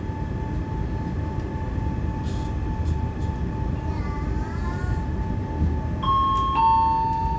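Steady rumble of a moving passenger train heard from inside the carriage. About six seconds in, the public-address system plays a two-note falling chime, the signal that an onboard announcement is about to begin.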